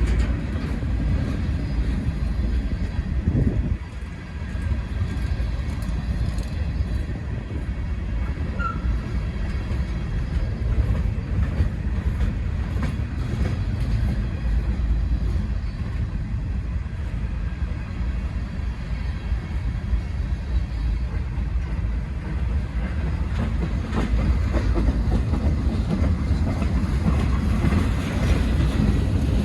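Freight train of hopper cars rolling past, a steady low rumble of wheels on rails.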